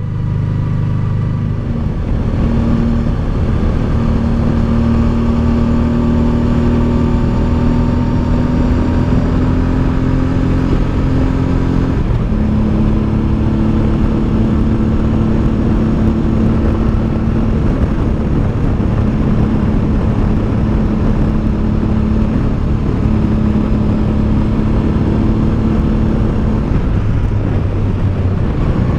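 Honda Deauville's V-twin engine pulling steadily under way. Its pitch climbs slowly, then drops suddenly about twelve seconds in and holds steady, with a constant low rush of riding noise underneath.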